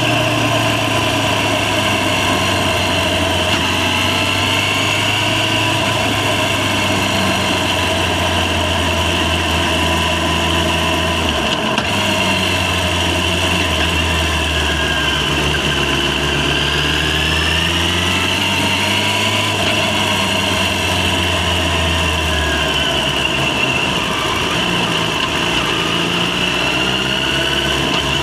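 Yamaha FZ6's 600 cc inline-four engine running on the move. Its pitch rises and falls with the throttle, with a short break a little under halfway through.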